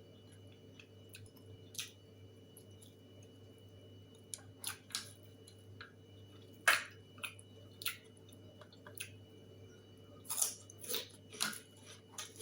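Someone eating: scattered short crunches and wet mouth clicks while chewing, irregular, with a sharper crunch in the middle and a run of them near the end, over a faint steady hum.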